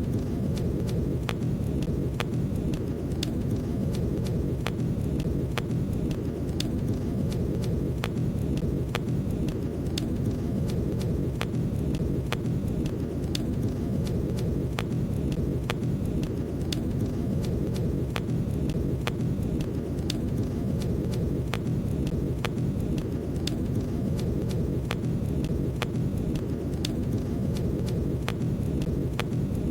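Wood fire burning in a fireplace: irregular sharp crackles and pops, about one or two a second, over a steady low rumble of the flames.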